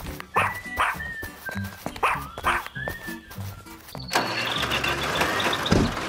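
Cartoon dog barking twice in two quick pairs over light background music, then a tractor engine starts about four seconds in and keeps running steadily.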